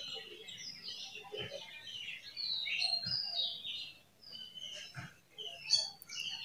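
Small birds chirping over and over in short, quick notes, with a few faint low thumps in between.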